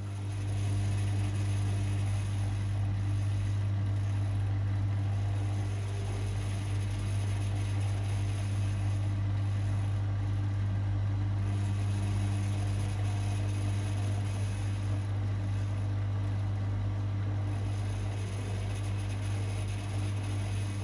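Privileg 5020 front-loading washing machine running, a steady low hum with the whirring of its motor and drum, setting in at the very start.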